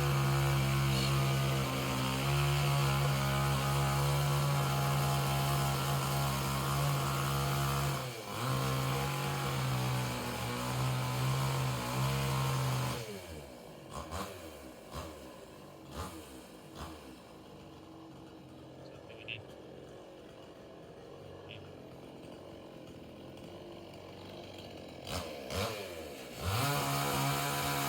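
A chainsaw's two-stroke engine runs steadily at speed, dips briefly about eight seconds in, then slows to a much quieter idle about halfway through. A few short bird chirps are heard during the idle, and the engine revs up loudly again near the end.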